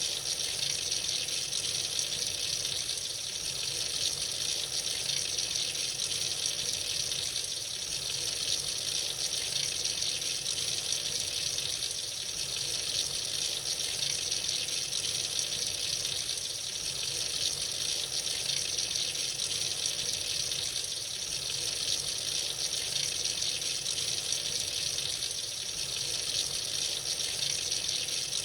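Tap water running freely into a sink in a steady stream, an even hiss with no change.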